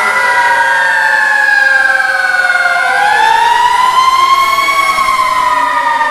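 Several fire apparatus sirens wailing together, their pitches rising and falling slowly and out of step so that the tones cross over one another.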